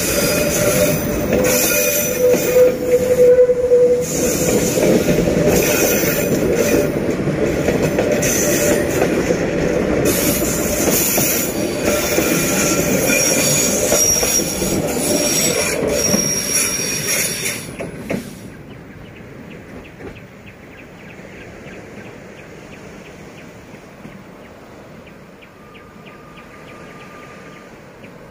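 Passenger train coaches rolling past close by, wheels squealing with several steady high ringing tones over a loud rumble. About two-thirds of the way through the sound drops off sharply as the last coach goes by, leaving a faint steady background noise.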